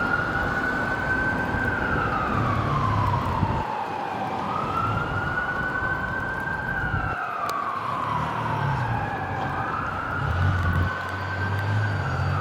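Emergency vehicle siren in a slow wail, its pitch rising and falling about every four seconds, about three times, over the low rumble of street traffic.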